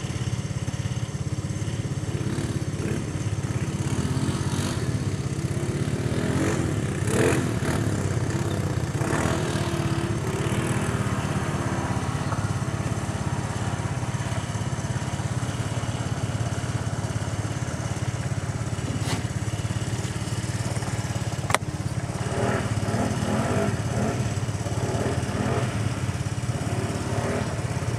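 ATV engine running steadily with no big revs, and a single sharp click about two-thirds of the way through.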